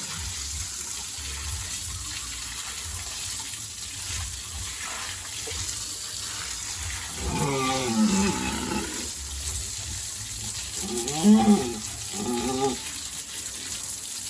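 Water running steadily, then pigs squealing in two bouts about halfway through and near the end.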